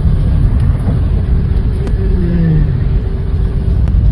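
Car driving, a steady low rumble of road and wind noise, with a short falling tone about two seconds in.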